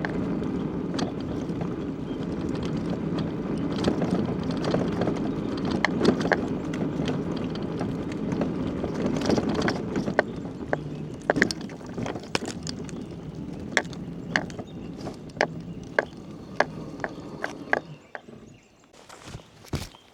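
Steady rumble of a bicycle ride, tyres on the road and wind on the microphone. From about halfway a run of sharp taps comes at roughly two a second, and the rumble drops away near the end.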